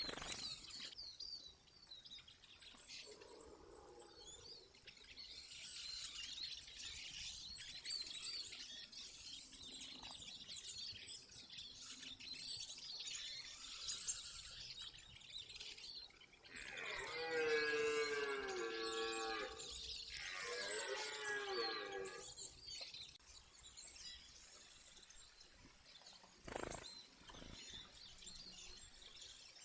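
A rutting deer stag bellowing once, a long, deep roar that falls in pitch and breaks off briefly before a shorter second part, over faint birds chirping. A short knock sounds near the end.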